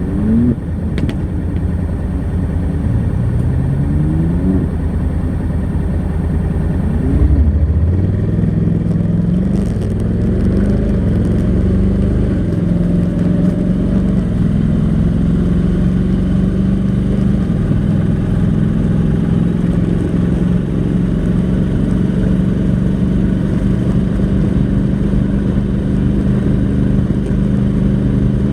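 Honda NC700X's 670 cc parallel-twin engine through its stock exhaust, accelerating in three rising runs, each cut off by an upshift of the dual-clutch transmission. After about eight seconds it settles to a steady cruise.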